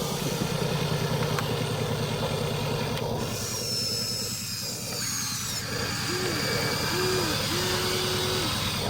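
Huina radio-controlled toy excavators working, with a steady whirring buzz of their small motors and gearing. A high whine slides slowly downward in the middle. Near the end come three short humming tones that rise and fall as the motors start and stop.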